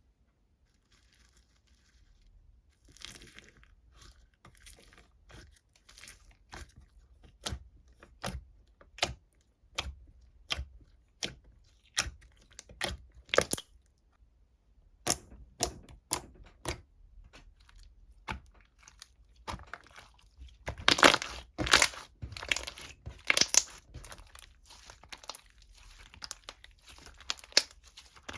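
Crinkly material being handled and torn: a run of sharp crackles, roughly one a second, with a denser, louder flurry about twenty seconds in.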